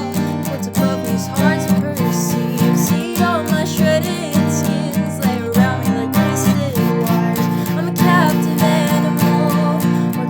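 Acoustic song music: an acoustic guitar strummed in a steady rhythm, with a melody line weaving over the chords.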